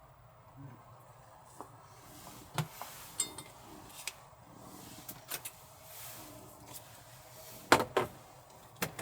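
Scattered light clicks and knocks of things being handled in a small vehicle cabin, with two louder knocks in quick succession about three-quarters of the way through.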